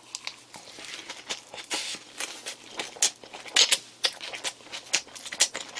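Chewing a big mouthful of lettuce wrap filled with grilled pork and ssamjang: irregular wet clicks and smacks of the mouth, close to the microphone.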